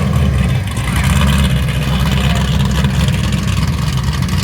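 Car engine running close by with a deep, steady low rumble.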